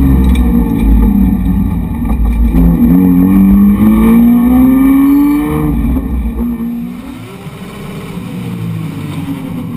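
Race car engine heard from inside the caged cabin, revving hard under acceleration with a gear change about two and a half seconds in, climbing in pitch again, then easing off around six seconds in and running quieter and lower toward the end.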